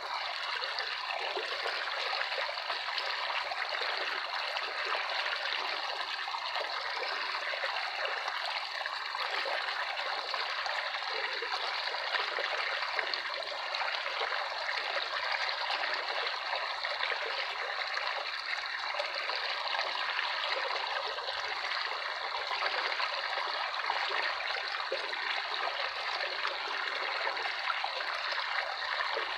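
Running water trickling and splashing steadily, like a small stream, with no music over it.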